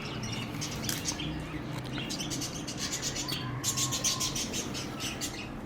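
Small birds chirping in bursts of quick, high-pitched trills that recur several times, over a low steady hum.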